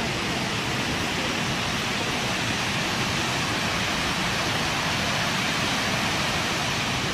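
Large waterfall's steady rushing roar of falling water, unbroken and even throughout.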